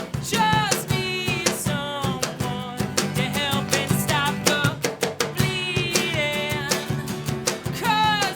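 Rock band playing live: a lead voice singing over electric guitar and a drum kit keeping a steady beat.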